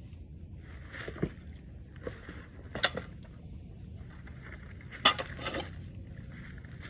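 Metal tools and engine parts clinking and knocking during engine teardown work: several sharp metallic clinks spread out irregularly, the loudest about five seconds in.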